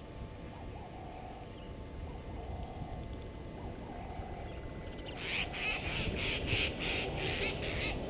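A bird calling a quick run of about eight harsh, scratchy notes, some three a second, starting about five seconds in, over a steady low rumble with fainter warbling bird calls before it.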